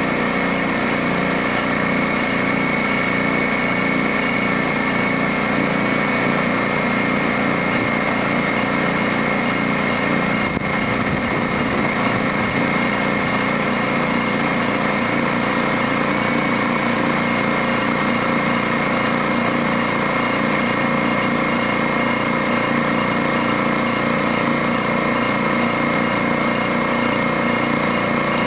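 DeWalt D55146 air compressor's pump and motor running steadily, building up tank pressure.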